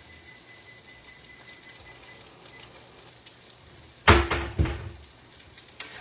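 Faint sizzling of food cooking on the stove, broken about four seconds in by a loud clatter of cookware: two or three quick knocks with a short metallic ring.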